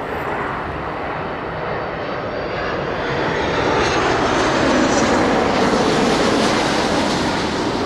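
Jet airliner's engines passing overhead as a steady rushing roar that grows louder toward the middle and then eases slightly.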